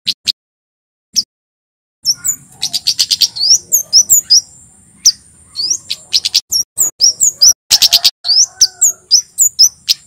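Male kemade (Javan flowerpecker) singing: rapid, sharp, high chirps and thin sweeping notes over a sustained high buzzing trill. The song starts up after a pause of about two seconds near the start.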